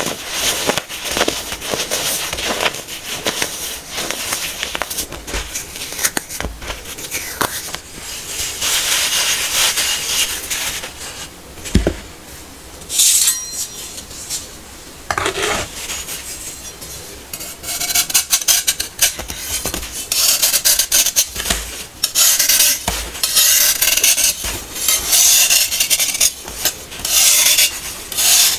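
Hard-packed baking soda being crushed and crumbled: a dense run of crisp crunches and gritty crackling, easing off for a moment around the middle, then coming thick and loud again.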